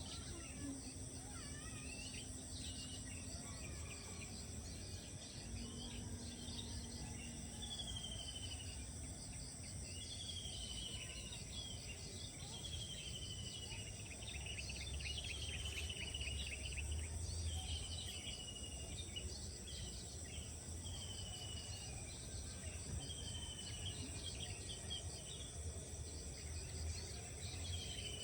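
Insects trilling steadily in rice paddies, with a bird repeating a short falling whistle about every two seconds, over a low rumble.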